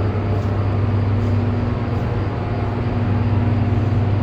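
Steady low hum of Hoover Dam's hydroelectric generators running in the powerhouse hall, with a steady higher tone over it and an even wash of machine noise.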